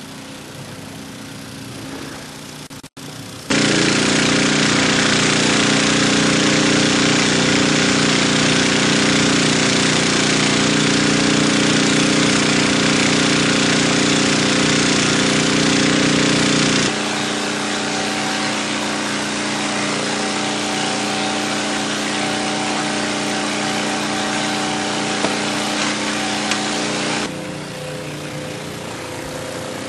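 Outboard motor of an inflatable Zodiac boat running steadily. About three seconds in it suddenly becomes much louder, then drops back somewhat near seventeen seconds and again near twenty-seven seconds, each change abrupt.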